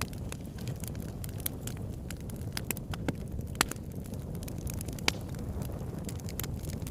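Campfire crackling: a steady scatter of sharp pops and snaps over a low, even rumble, with two louder pops about halfway and about three-quarters of the way through.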